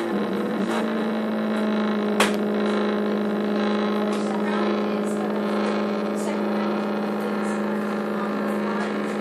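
Stepper motor driven by a homemade MOSFET H-bridge, running on an underpowered supply and humming with a steady tone. Faint ticks come through, with one sharper click a little over two seconds in.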